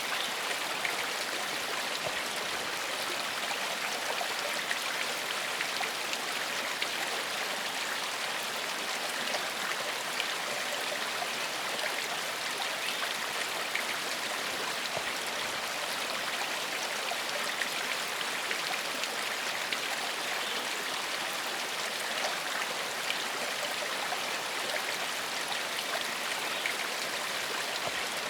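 Small forest stream flowing steadily, a constant rushing hiss of water over stones with fine splashing and trickling.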